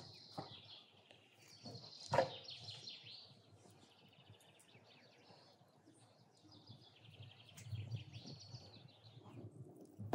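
Small songbirds singing: several trilled phrases of rapid, high repeated notes, with a single sharp knock about two seconds in.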